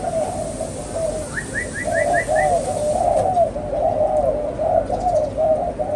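Spotted dove cooing: a steady run of low, arched coos. A little over a second in, six quick high chirps from another bird sound briefly over it.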